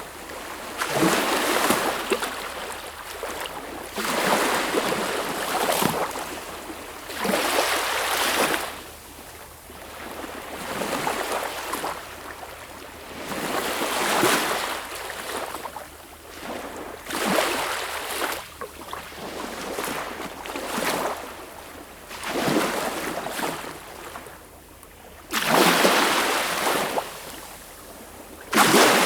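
Sea waves breaking and washing in, one rush of surf every one to three seconds, each swelling up and falling away.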